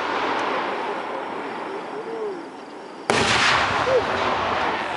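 Aerial firework shell bursting with a sudden loud boom about three seconds in, followed by a long rolling rumble; before it, the echo of the previous burst fades away.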